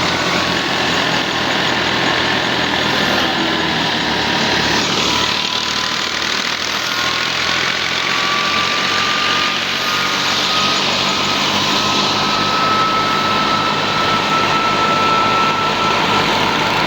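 Al-Ghazi tractor engine running steadily while driving a thresher, with an even low rumble and a thin high whine that sinks slightly in pitch over the first few seconds and then slowly climbs.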